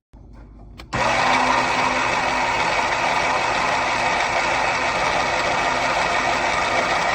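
Fellow Opus conical burr coffee grinder's electric motor starting suddenly about a second in and running steadily while grinding.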